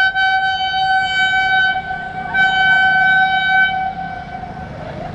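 Train locomotive horn sounding a long, loud blast that dips briefly about two seconds in, swells again, and fades out around four seconds in.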